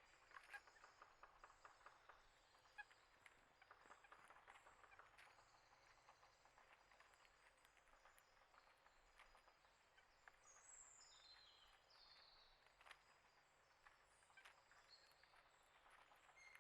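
Faint outdoor ambience of small birds: scattered light clicks in the first few seconds, then a few short, falling chirps about two-thirds of the way through.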